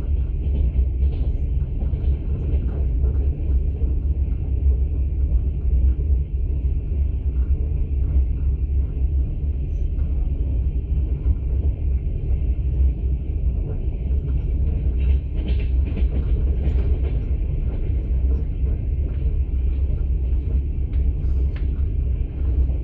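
Steady low rumble of a moving passenger train heard inside a platzkart sleeper carriage, with faint scattered clatter and ticks over it.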